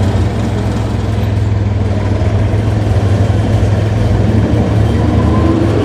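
A heavy vehicle engine running steadily with a deep, even hum.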